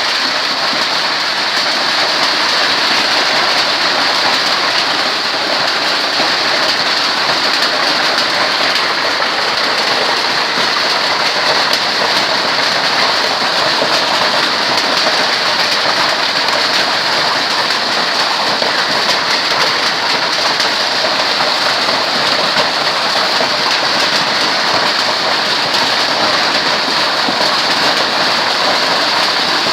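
Hail falling with rain in a steady, heavy downpour: a dense, unbroken hiss of countless small stones and drops striking the surfaces.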